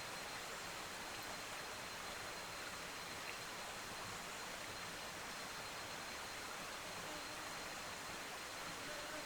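Faint, steady outdoor hiss with a thin, high, unchanging tone running through it.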